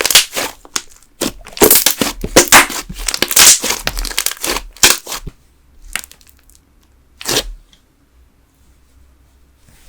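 Thick candle slime (a wood-glue and school-glue base with soy wax) worked by hand, giving dense crackling and popping of air bubbles. The crackling stops about halfway through, and two single pops follow.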